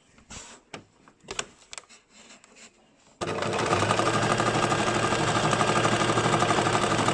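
A few light clicks and handling sounds, then about three seconds in a basic electric sewing machine starts and runs steadily at speed, its needle stitching with a fast, even rattle.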